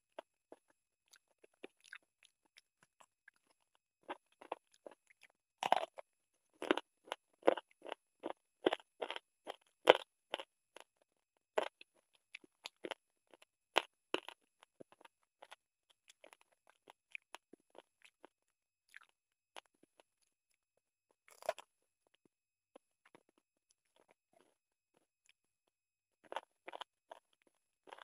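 Close-up eating sounds: chewing and crunching on mouthfuls of chicken curry and rice, about two chews a second, loudest for a stretch partway through and again near the end, with softer clicks of fingers working the rice on the plate in between.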